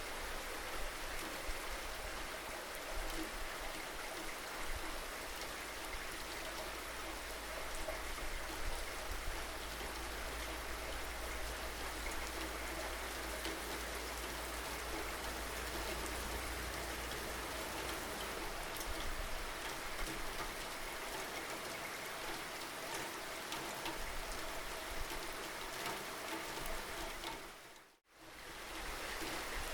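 Steady rain falling, with individual drops ticking on a surface. About two seconds before the end the sound fades out to silence and then fades back in.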